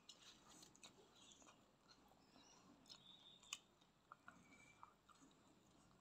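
Faint close-up chewing of a mouthful of fried instant noodles: soft wet smacking with small mouth clicks, one sharper click about halfway through.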